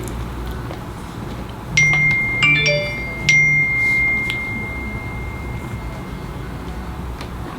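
Three light strikes on something that rings, starting about two seconds in, each setting off a clear high ringing tone; the last ring fades out over about three seconds.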